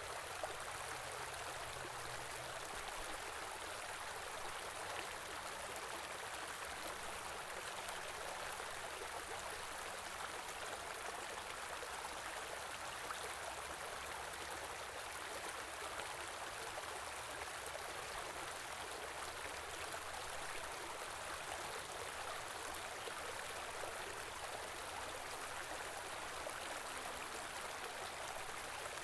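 Stream flowing steadily, an even, constant rush of water.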